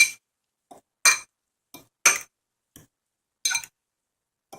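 Metal fork clinking against a bowl while stirring half-cooked microwaved scrambled eggs: a sharp clink about once a second, with softer taps in between.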